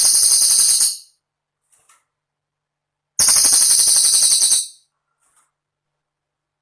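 Cililin bird singing its very high, buzzing rapid trill in phrases of about a second and a half, each starting abruptly. One phrase ends about a second in and another follows about three seconds in.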